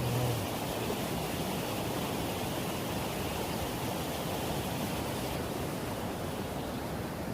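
Floodwater of a river in flash flood, rushing steadily.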